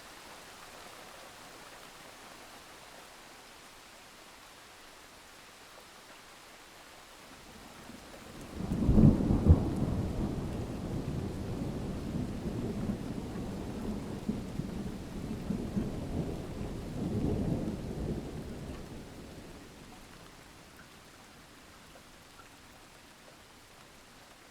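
Thunderstorm: steady rain hiss, with a roll of thunder that cracks in sharply about a third of the way through, rumbles on with a second swell, and dies away before the end.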